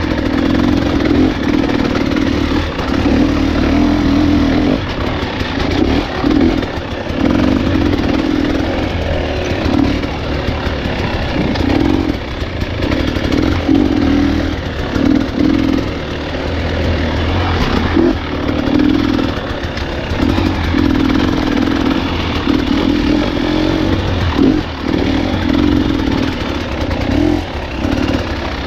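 Dirt bike engine running hard on a trail ride, the throttle opened and closed every second or two, so the engine note keeps rising and dropping.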